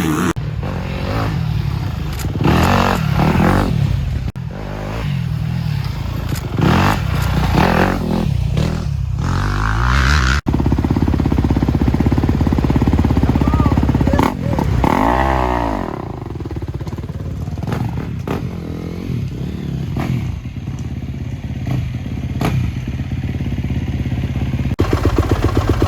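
Dirt bike engines running and revving up and down, with one bike passing close by about halfway through, its pitch dropping as it goes past.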